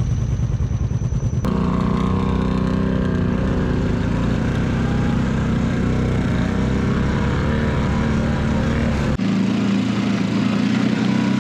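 ATV engines running, their pitch rising and falling with the throttle. The sound changes abruptly about a second and a half in and again near the end.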